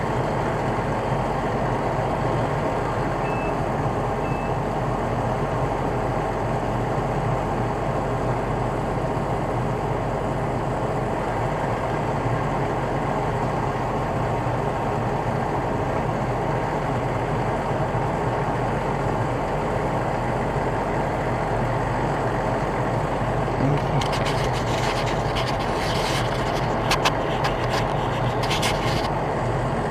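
Heavy truck engine running steadily at idle, with two short high beeps a few seconds in and a run of sharp clicks and crackles near the end.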